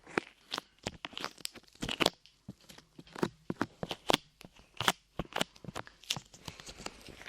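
Light clay squished and pulled close up, making irregular sticky crackles and clicks.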